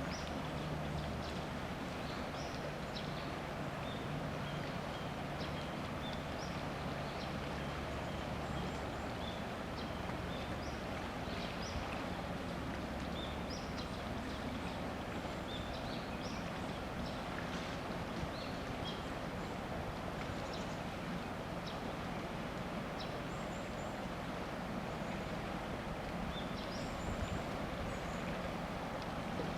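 Low drone of a passing large ship's engine, fading out over the first several seconds, over a steady background rush, with many short high bird chirps throughout.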